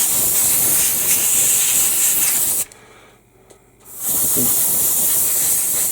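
Airbrush spraying model paint with a steady, high hiss. It cuts off abruptly a little under halfway through, as the trigger is let go, and starts again about a second later.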